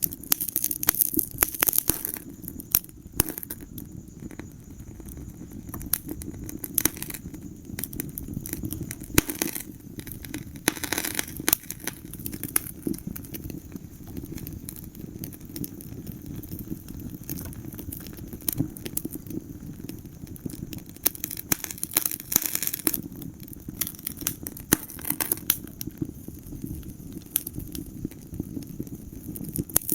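Wood fire burning in a fireplace: a steady low rumble of flames with frequent crackles and sharp pops, some coming in quick clusters.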